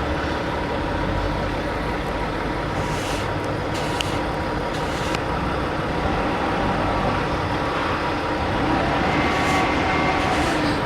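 Vehicle engine running steadily with a low rumble, with a few short hisses about three to five seconds in and again near the end.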